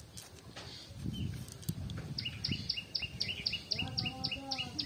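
A bird calling a rapid, even series of short high notes, about four a second, starting about two seconds in, over a low rumble. A brief voice-like sound comes near the end.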